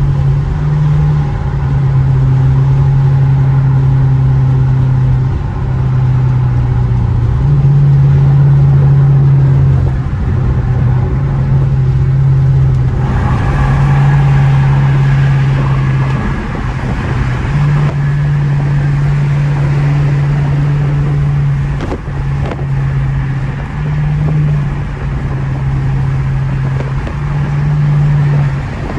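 Straight-piped Dodge Charger R/T V8 exhaust droning steadily while cruising, its low note stepping slightly up and down as the throttle and speed change. A hiss of road or wind noise rises for a few seconds about halfway through.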